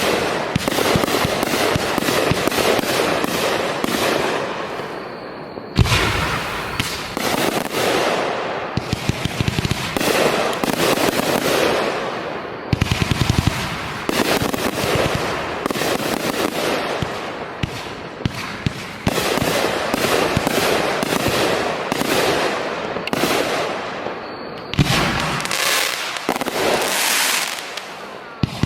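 Fireworks show: a dense run of rapid crackling and popping, with heavier booms about six seconds in and again near the end.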